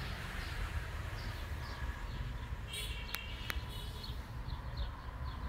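Small birds chirping in short, quick repeated notes over a steady low rumble, with two sharp clicks a little past the middle.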